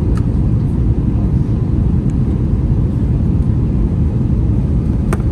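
Steady low rumble of a jet airliner's cabin: an Airbus A321's IAE V2500 engines and air noise heard from inside the passenger cabin, with a faint tick near the start and another near the end.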